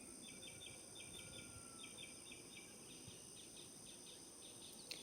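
Near silence: faint outdoor ambience with quiet, rapidly repeated insect chirps and a steady high whine.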